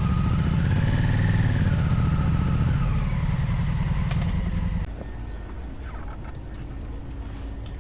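A car on the move, with a loud low engine-and-road rumble and a tone that rises and falls. About five seconds in, the rumble drops away abruptly to quieter, steady road noise.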